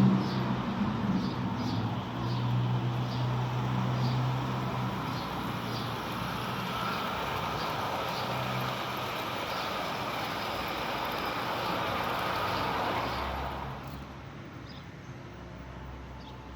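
Spur 1 scale model of an M62 diesel locomotive running on garden railway track: a steady running noise with a low hum at first and regular light clicks, which drops away sharply near the end.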